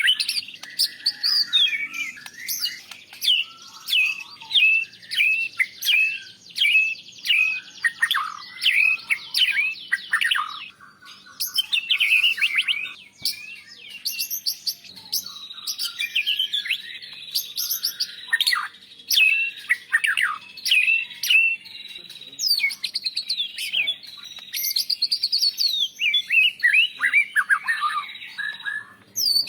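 White-rumped shama (murai batu) singing continuously: quick series of sweeping whistled notes and chirps with short pauses, a varied song that carries mimicked phrases of other birds.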